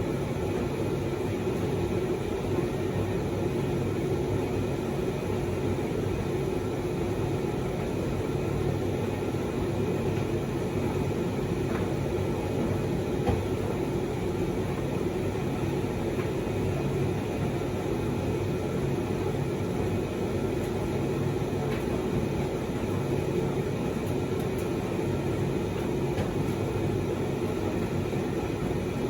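Proline TDV60 vented tumble dryer running: a steady hum of motor, fan and turning drum, with a couple of faint ticks. It is on a test run with a newly fitted drive belt, loaded with dust sheets.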